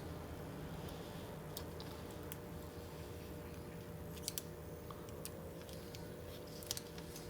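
Polarizing film being peeled off a laptop LCD panel: scattered small sharp clicks and crackles, a few close pairs, over a steady low hum.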